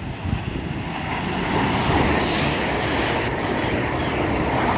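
Avanti West Coast Class 805 Evero train passing through at speed: a rush of wheel and air noise that swells over the first two seconds or so and then holds.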